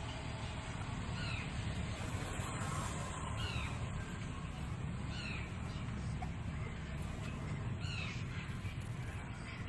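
A bird calling again and again in short falling notes, one every second or two, over a steady low background hum.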